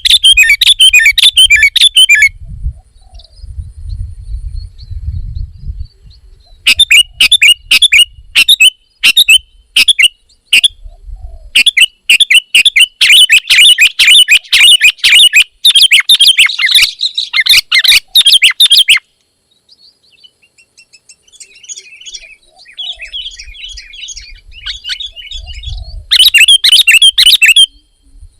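Sooty-headed bulbul (kutilang) calling in loud runs of rapid, repeated chirps, each run lasting a few seconds, with short pauses and fainter chirping between them.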